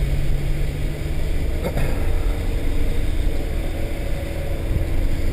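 Inside the cabin of a Honda S2000 driving on a wet track: the engine runs steadily under a haze of tyre and road noise. A brief click comes about two seconds in.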